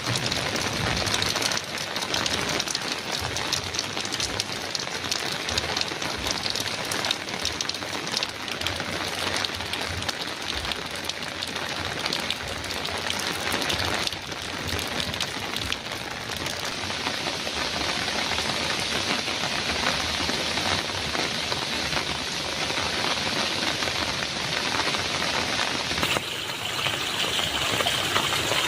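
Heavy rain drumming steadily on a metal roof, a dense patter of countless drops. Near the end the sound changes abruptly to a brighter, hissier rain.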